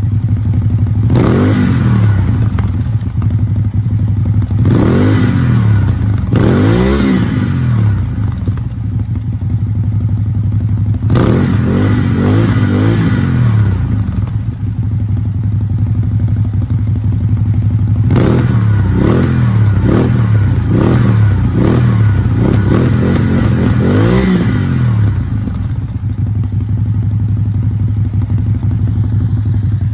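Can-Am Spyder RT with an aftermarket GPR muffler, idling and blipped with the throttle again and again. Short revs come near the start, a longer run of revs comes in the middle, and a cluster of quick revs comes in the latter part, each falling back to a steady idle.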